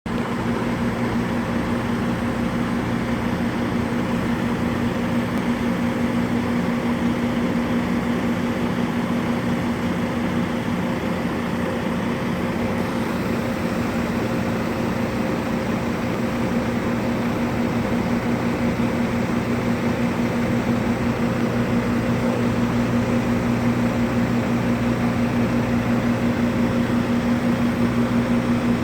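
Steady machine hum with a fixed low tone and a hiss over it, unchanging throughout.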